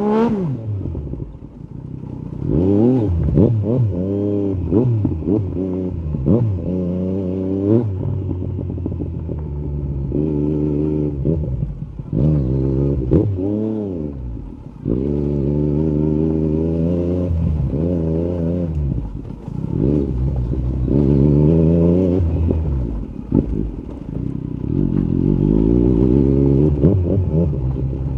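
Yamaha MT-09 SP's 890 cc inline-three running through an Akrapovic carbon Racing-Line exhaust, the revs rising and falling again and again as the bike accelerates, shifts and slows, with a few steadier stretches in between.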